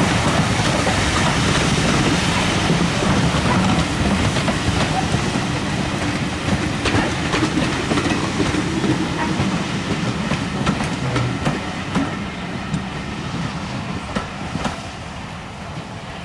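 Passenger coaches running past on jointed track, the wheels clicking over the rail joints amid a steady rumble. The sound fades over the last few seconds as the end of the train goes by and draws away.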